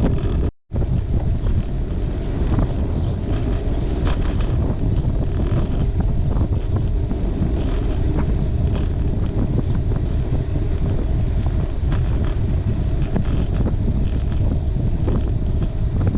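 Wind buffeting the microphone of a camera riding along on a bicycle, a steady loud rumble, cut off by a brief gap about half a second in.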